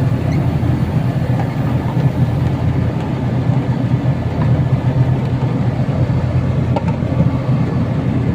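Carrier air-conditioner running, its compressor and condenser fan giving a loud, steady hum. The compressor is working again and the unit is cooling; the fault was traced to a malfunctioning thermostat.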